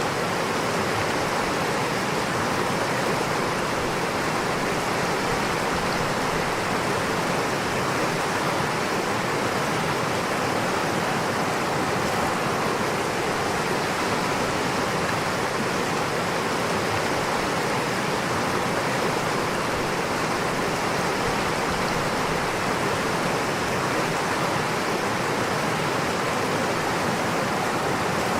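Steady rushing of flowing water, an even, unbroken noise with no change in level.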